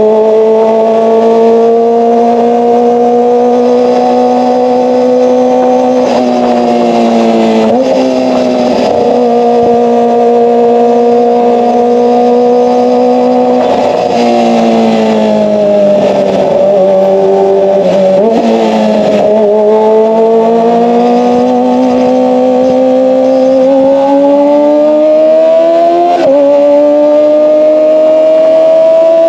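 Kawasaki ZX-25R's 250 cc inline-four engine, fitted with an SC-Project aftermarket exhaust, running at high revs. Its loud, high note rises and falls, with several sudden steps in pitch.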